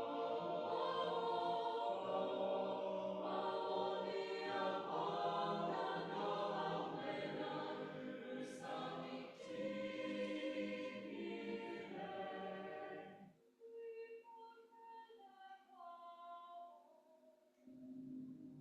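Choir singing. About thirteen seconds in the lower voices drop out and a few higher voices carry on quietly, then the full choir comes back in near the end.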